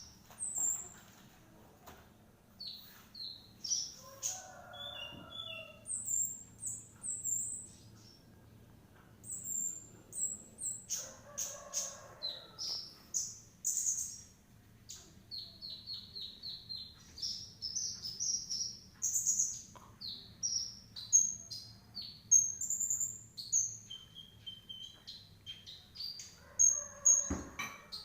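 Sunbird singing: rapid runs of high, sharp chirps and short trills, broken by brief pauses. A single knock near the end.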